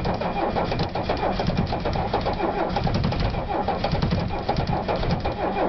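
Old Mercedes-Benz diesel engine being cranked by its starter in deep frost, turning over roughly and unevenly as it struggles to catch on a cold start.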